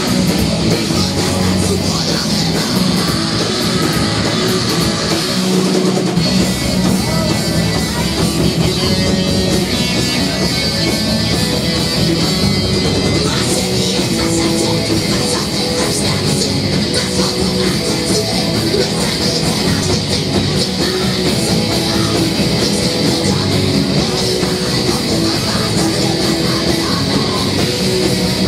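A rock band playing live: distorted electric guitar, bass and drums, loud and continuous.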